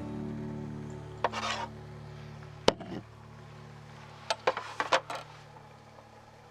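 Cooking gear being handled: a short scrape about a second in, a sharp clack near three seconds, and a quick run of clicks and knocks around four to five seconds, over background music that fades out.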